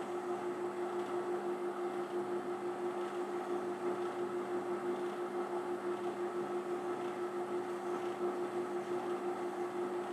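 Electric workshop machine running steadily with an even hum and a fine, quick flutter in loudness, with no changes in load.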